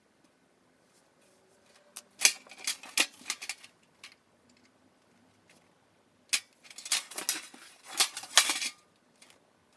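Thin metal parts of a homemade fire pit clinking and rattling as they are handled, in two bursts of quick clanks.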